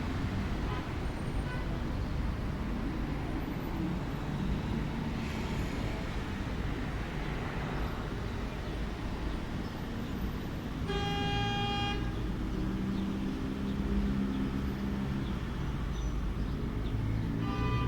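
Steady rumble of road traffic, with a car horn sounding once for about a second partway through and a shorter horn-like toot near the end.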